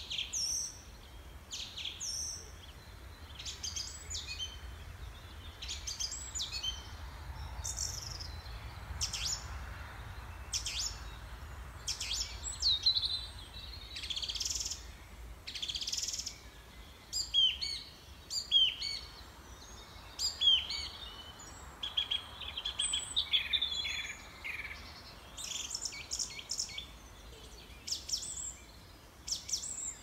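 Small birds chirping and twittering: many short, quick calls following one another throughout.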